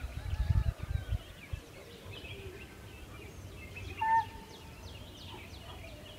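Wild birds chirping and calling, with a louder short whistled note about four seconds in. Wind rumbles on the microphone for the first second and a half.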